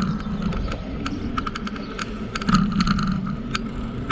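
Bicycle riding along a trail: tyres rolling with frequent irregular rattling clicks from the bike over a steady rumble.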